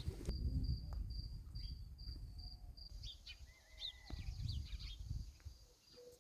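A cricket chirping in a high, even pulse of about three or four chirps a second for the first half. Then several short bird chirps follow, over faint low rumbling noise.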